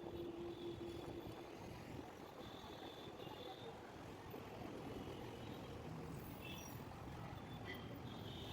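Steady road traffic noise, a low rumble of passing vehicles, with a few short faint high tones around the middle and near the end.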